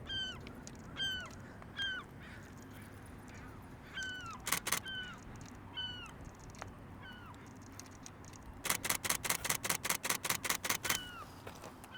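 Crow cawing repeatedly, short falling calls about once a second, a sign of crows mobbing a juvenile bald eagle overhead. A camera shutter fires a quick burst of three frames about four and a half seconds in, and a longer rapid burst of about twenty frames lasting two seconds near the end.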